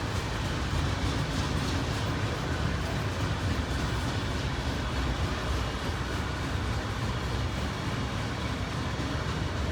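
Union Pacific intermodal stack train rolling past: a steady rumble of steel wheels on rail.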